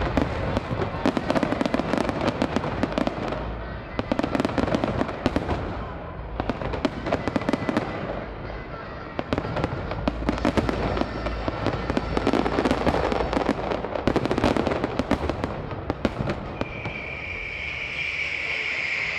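Fireworks display: a dense, continuous barrage of shell bursts and crackling bangs coming in waves, which stops a few seconds before the end.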